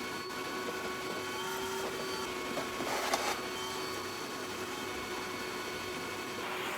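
Vacuum cleaner running steadily, its motor giving a level whine over a hiss, with a brief louder rush about three seconds in.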